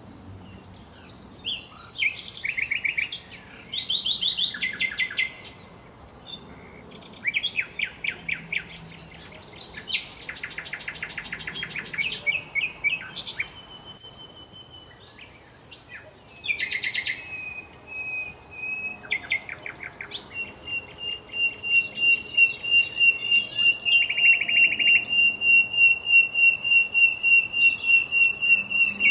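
Several songbirds singing, with varied high chirps and quick trills. About two-thirds of the way through, a long, even, rapidly pulsing high trill sets in and carries on to the end.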